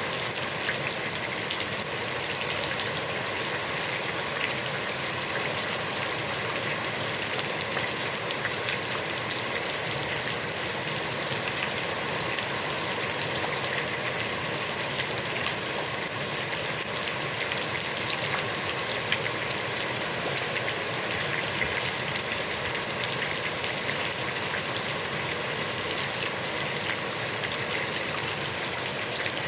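Heavy rain falling steadily onto a pond's water surface: a dense, even hiss of countless drops that keeps the same level throughout.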